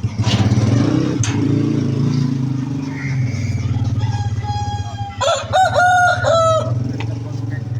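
A rooster crowing once, about five seconds in, over the steady low drone of an engine running.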